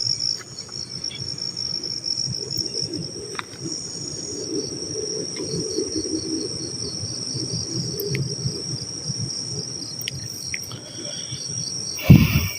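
Crickets chirping in a steady, high continuous trill over a low uneven rumble, with a single loud knock near the end.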